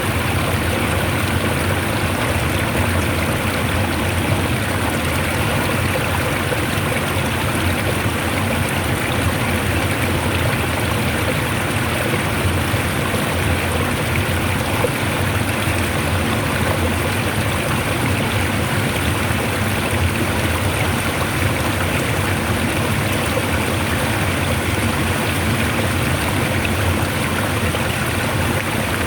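Water flowing strongly, a steady, unbroken rush without pauses or single splashes.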